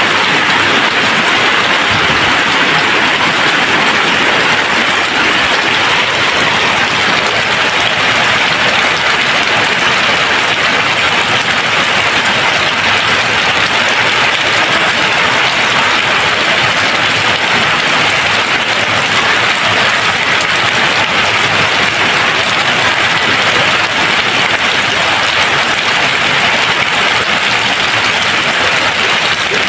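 Steady rain falling, a dense even hiss without thunder.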